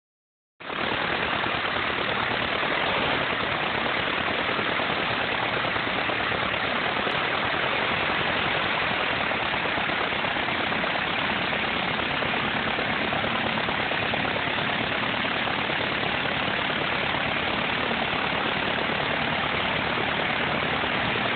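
RV-7A aircraft piston engine and propeller running at a steady speed, loud and unchanging.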